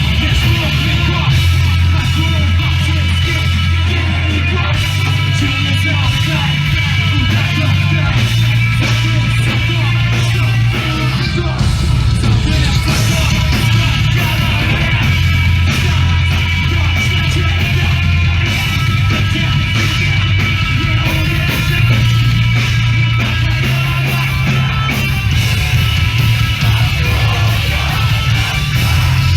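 Live punk/hardcore band playing loudly: distorted electric guitars, a bass line whose low notes shift every second or two, and drums, with no breaks.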